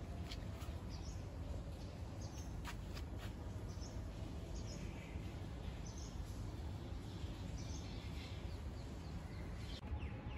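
Small birds chirping, short high calls every second or two, over a steady low rumble of background noise, with a few sharp clicks.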